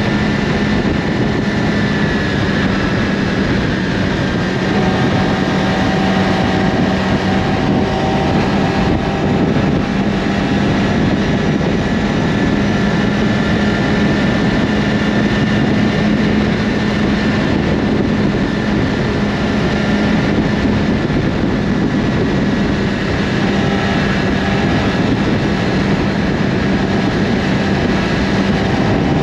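Yamaha R6 inline-four sport bike with an Akrapovic slip-on exhaust, cruising at steady revs with a constant engine tone under rushing wind noise.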